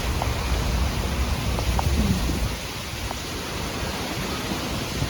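Heavy rain pouring down steadily in a thunderstorm, with a low rumble of thunder that eases off about halfway through.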